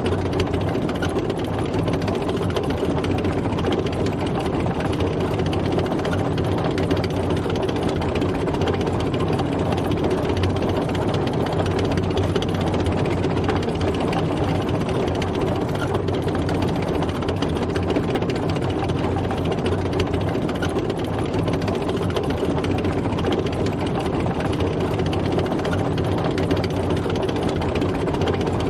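A tracked tank driving steadily: its heavy engine runs evenly under a fast, continuous mechanical clatter.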